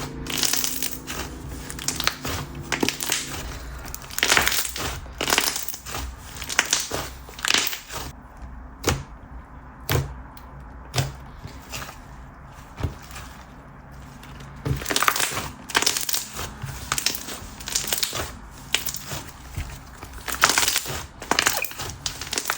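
Thick, slightly dried-out chewy slime being squished and pressed by hand, giving off a run of sharp crackles and pops, with a quieter spell in the middle.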